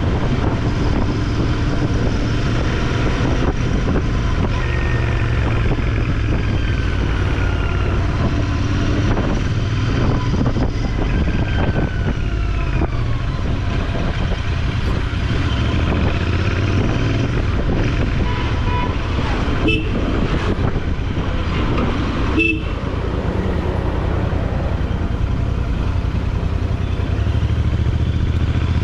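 Motorcycle engine running steadily under way, with wind rumble and pitch glides as it revs. Brief horn toots sound about 20 and 22 seconds in.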